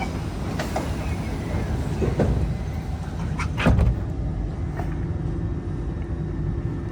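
Inside a Kawasaki C151 train car: the doors sliding shut with a few clunks and one heavy thud about three and a half seconds in, over the steady rumble of the car's equipment. A steady low hum follows the thud.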